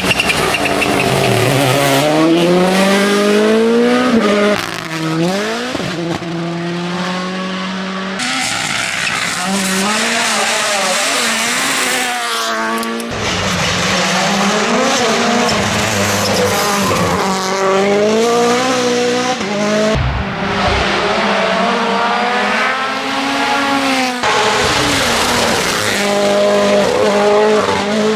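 Rally cars at full attack on tarmac, engines revving hard, with the pitch climbing through each gear and dropping off at shifts and under braking. Several short passes of different cars follow one another.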